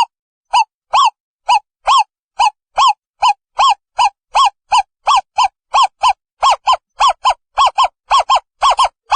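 An owl calling: a long series of short, arched notes repeated about two to three times a second, getting quicker and coming in pairs toward the end.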